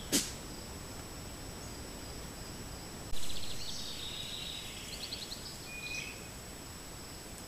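Songbirds singing, a few seconds of quick trills and chirps that start suddenly about three seconds in, over the steady hiss and faint high whine of a trail camera's recording. A sharp click comes just after the start.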